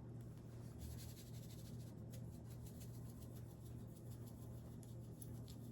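Faint, irregular light ticking and scratching from ingredients being handled, typical of seasoning being shaken into a bowl of flour, over a steady low hum.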